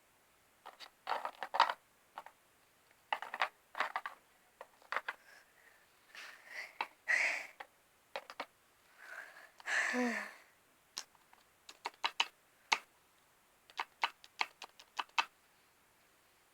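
Small plastic toy figures and props being handled: irregular clicks, taps and short rustles, with a brief voice-like sound about ten seconds in.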